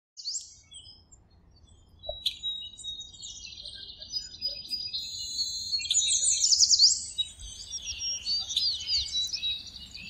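Birds chirping and singing, several high calls and trills overlapping, busiest and loudest about six to seven seconds in with quick sweeping whistled notes.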